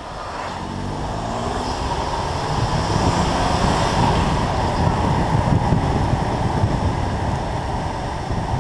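BMW M2 Competition's twin-turbo inline-six pulling under acceleration, its pitch rising over the first couple of seconds, then running on steadily. It is heard with wind buffeting the microphone and tyre hiss on a wet road.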